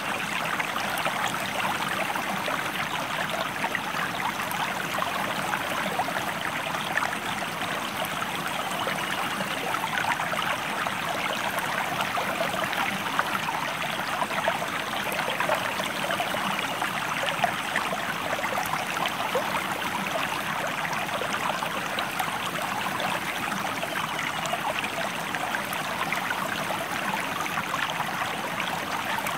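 River water flowing, a steady, unbroken rushing with many small splashes in it.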